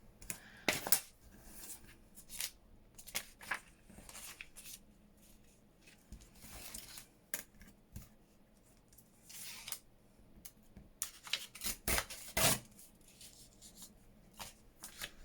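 Paper and card being handled for a collage page: short scattered rustles, swishes and snips as pieces are moved, cut or torn, with a cluster of louder ones near the end.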